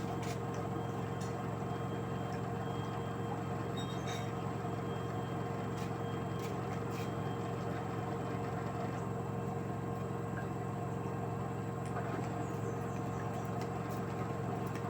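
LG direct-drive washing machine running on a cotton 60°C cycle: a steady hum with a constant high whine over it, and a few faint ticks.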